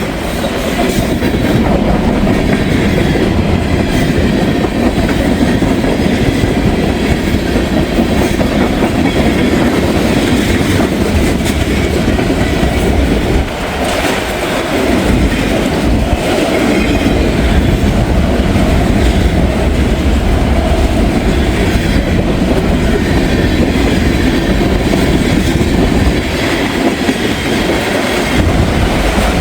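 CSX freight train rolling past, a steady loud rumble and clatter of its wheels on the rails.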